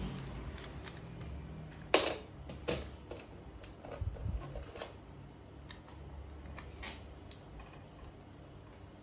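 Scattered sharp clicks and taps of small tools and plastic phone parts being handled during a phone battery replacement. The loudest click comes about two seconds in, a few smaller ones follow over the next few seconds, and one more comes near the end.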